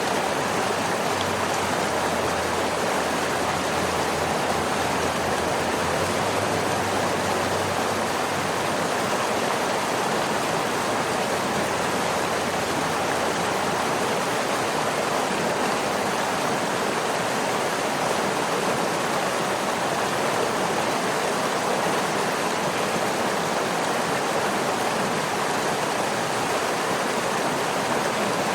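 Waterfall rushing in a steady, unbroken roar of white water, with a faint low rumble under it for the first dozen seconds or so.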